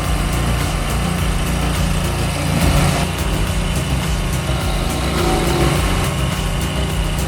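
A heavy machine's engine running steadily under load, with an even low drone and no marked change in speed.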